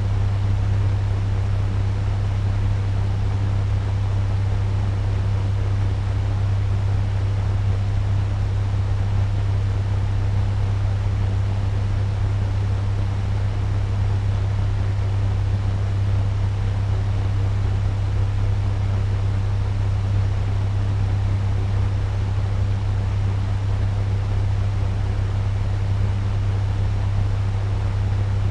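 Turbo fan running steadily at medium speed: a constant low hum under an even rush of moving air.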